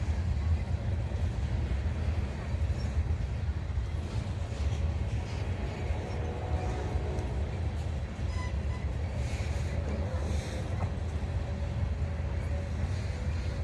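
Manifest freight train rolling slowly past, a steady low rumble of steel wheels on the rails.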